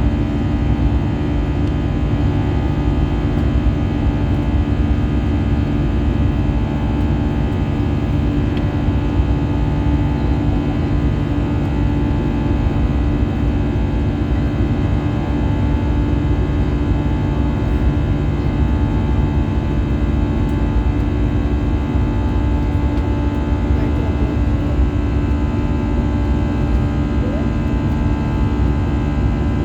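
Steady cabin noise of an Airbus A320-214 with CFM56 engines: a constant engine drone with a cluster of steady tones over a low rush of airflow, holding level throughout.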